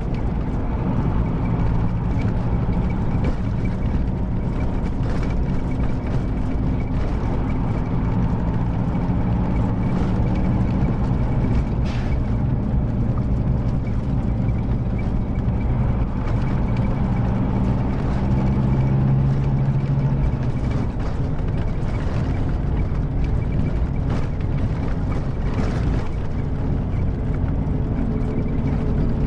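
Scania K310IB bus's rear-mounted five-cylinder diesel engine running while the bus drives, its note rising and falling slightly.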